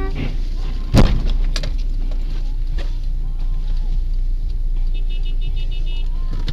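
Car collision heard from inside a vehicle: a single loud bang about a second in over steady road and engine noise, then a quick run of high electronic beeps near the end.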